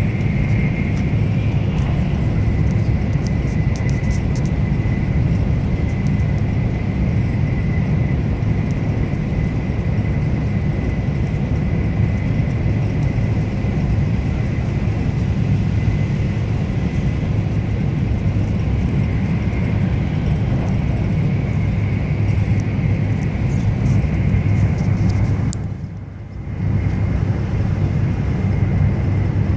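Bullet train running at speed, heard from inside the passenger car: a steady low rumble with a faint high whine over it. About 26 seconds in the noise briefly drops and dulls, then returns.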